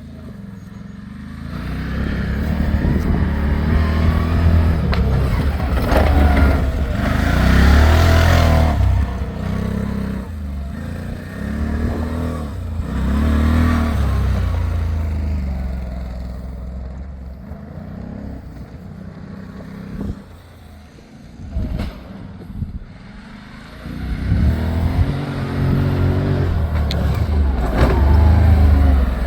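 ATV engine revving up and falling back several times, easing off to a low run about two-thirds through before revving hard again.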